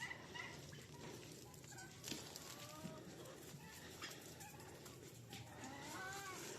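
Chickens clucking softly, with short scattered calls and a small burst of calls near the end.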